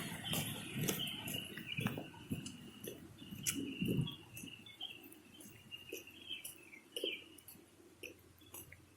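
Faint, continuous high-pitched chirping of insects at dusk, wavering in level, with a few soft bumps and clicks in the first few seconds.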